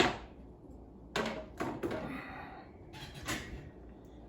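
Dishes and cupboard doors being handled while a dishwasher is emptied: a sharp knock at the start, then a few more knocks and clinks with a short scrape between.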